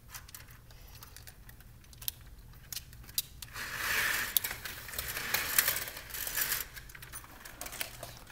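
The back door being unlatched and opened: a few sharp latch clicks, then about three seconds of rattling, rushing noise as the door moves.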